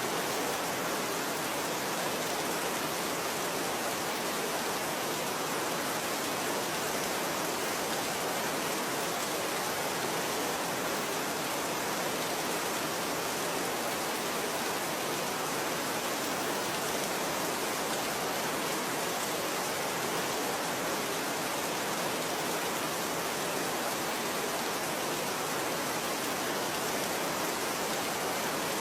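Steady, even rainfall: a dense hiss of rain with no single drops or changes standing out.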